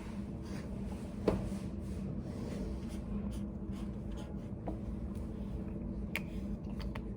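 Pen writing on paper at a desk over a steady low hum of room ventilation, with one sharp knock on the desk about a second in and a few light ticks near the end.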